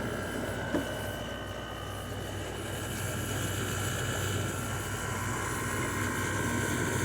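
LG 6000 BTU window air conditioner running with its compressor on: a steady low hum under the fan's air noise, with a faint steady high whine. A small tap about a second in.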